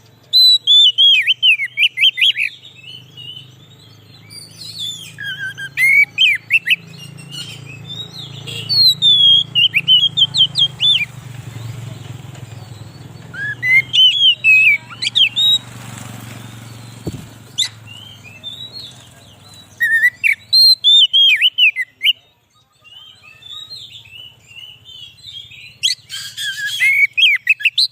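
Oriental magpie-robin (kacer) singing: bursts of quick whistled notes that rise and fall sharply, phrase after phrase a few seconds apart. A faint low hum runs underneath and fades out about two-thirds of the way through.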